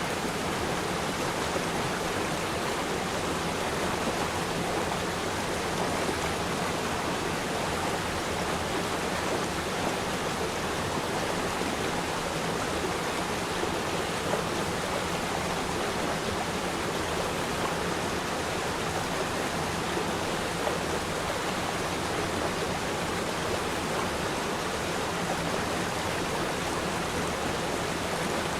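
River stream flowing steadily over rocks: a continuous, even rush of water.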